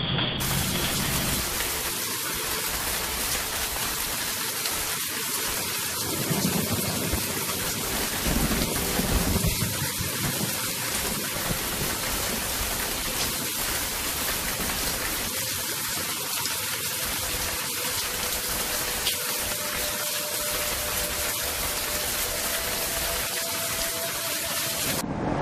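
Heavy storm rain: a steady, even hiss that carries on without a break.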